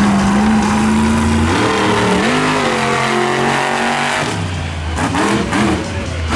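Monster truck engine revving hard, its pitch holding steady for a second or so, then climbing and dropping in steps as the throttle is worked.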